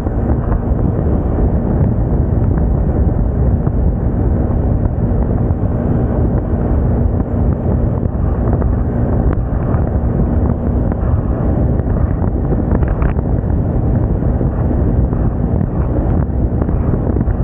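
Steady wind noise on the microphone of a moving Moda Moca 110 scooter, with a faint, even engine hum underneath.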